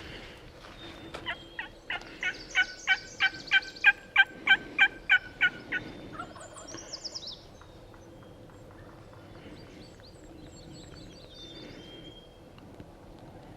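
A long series of turkey yelps, about fifteen evenly spaced notes at roughly three a second, growing louder and then fading off. Some faint, high small-bird chirps follow.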